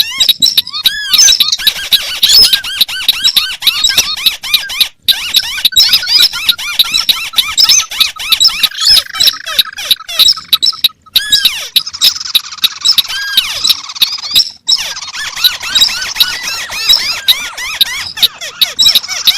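Recorded calls of white-browed crakes and other paddy-field crakes playing together: many rapid, squeaky chirping notes overlap in several uneven layers without pause.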